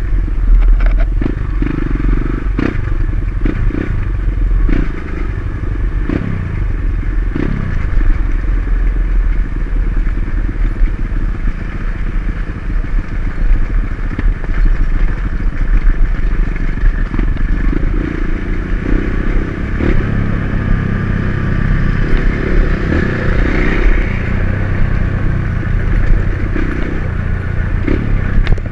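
Dirt bike engine running on a trail ride, its pitch rising and falling as the throttle is worked, with scattered knocks and rattles throughout.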